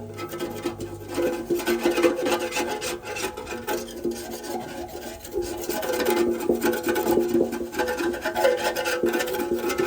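Hand scraping or rasping on a metal engine part, in many quick irregular strokes, as in cleaning rust and dirt off the engine.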